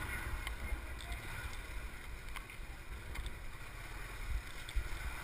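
Gusty wind buffeting the microphone over a steady low vehicle rumble while moving, with a few faint clicks.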